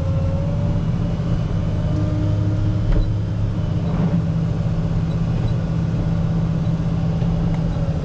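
Volvo rubber-tire wheel loader's diesel engine running steadily while pushing snow, a constant low drone with a thin whine above it.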